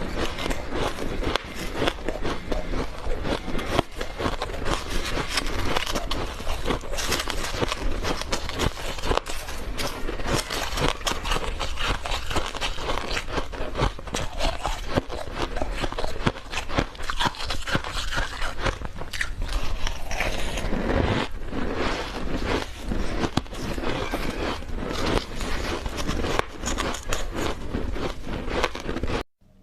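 Close-miked biting and chewing of refrozen powdery ice: a steady run of soft crunches and scraping, which cuts off suddenly just before the end.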